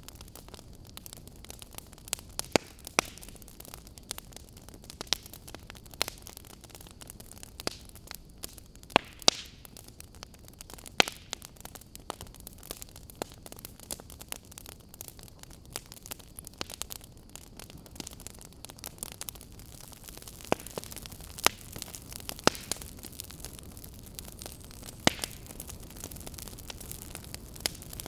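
Wood fire burning: a low steady rush with frequent irregular crackles and snaps of burning firewood, a few of them loud pops.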